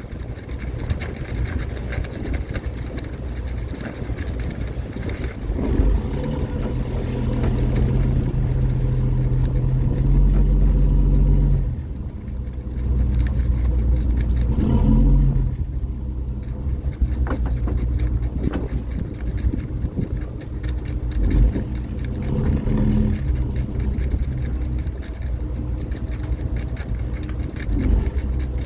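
Fishing boat's engine running steadily, its low note swelling louder a few times and dropping back suddenly once.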